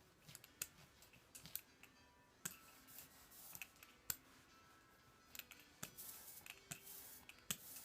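Faint sticky hissing swipes and scattered small clicks of a brayer rolling printing ink onto a carved linoleum block.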